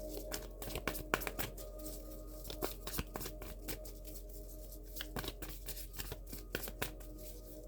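Tarot cards being shuffled and handled: an irregular run of quick soft clicks and flicks, over soft background music with steady held tones.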